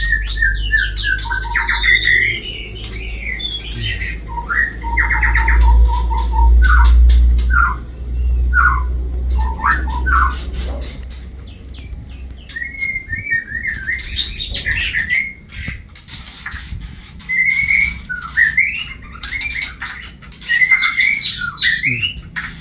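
White-rumped shamas calling: a run of varied whistled notes, chirps and pitch glides, broken by sharp clicks. A low rumble lies under the first half.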